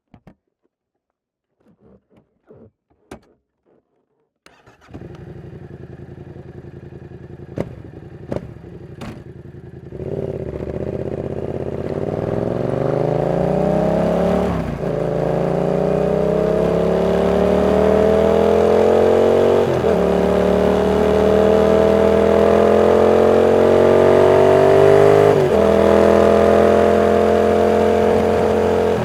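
Yamaha MT-07's 689 cc CP2 parallel-twin engine starting and idling, with a few sharp clicks, then pulling away hard: the pitch climbs through each gear, broken by three upshifts.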